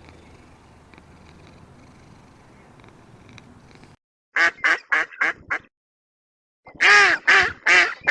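A cat purring softly and steadily. About four seconds in it cuts off abruptly, and a duck starts quacking: a run of five short quacks, a brief pause, then a louder run.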